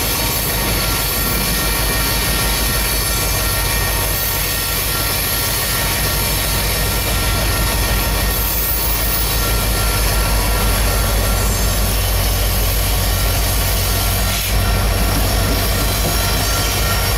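Coal train's cars rolling past: a loud, steady rolling rumble of steel wheels on rail, with a thin steady wheel squeal.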